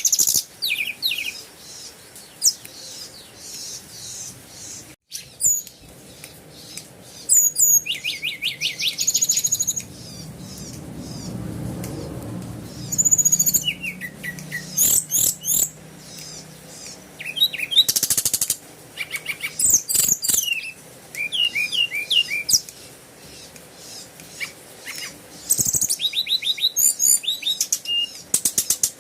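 Birds chirping and singing, with many short high calls and quick trills coming and going. A faint low hum swells and fades in the middle.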